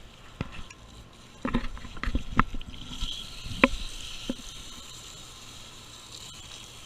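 A few knocks and clatters of the air-conditioner unit's panel being handled, then, about three seconds in, a steady hiss of a garden hose spraying water onto the unit.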